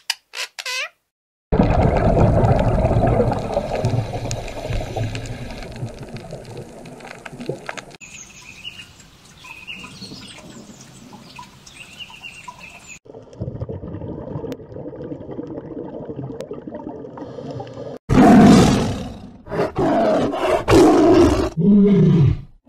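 Animal calls in a string of cut-together clips: a loud, rough, low call at first, quieter sounds with faint high chirps in the middle, and several loud pitched calls near the end.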